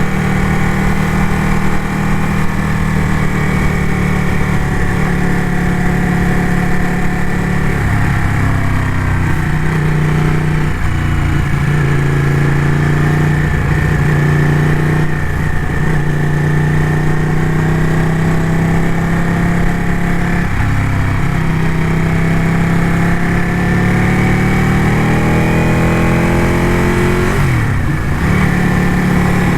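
Ducati motorcycle engine running under way, its pitch slowly rising and falling with throttle, with a brief sharp drop and climb again near the end.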